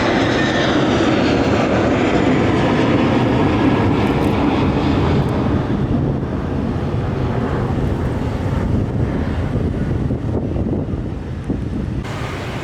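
Airliner engines roaring past, loud at first, then fading and losing their higher sound after about five seconds as the aircraft moves away.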